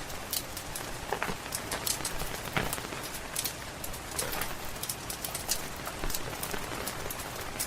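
Steady rain falling, with a log fire's crackle: frequent sharp, irregular clicks and pops over the even hiss of the rain.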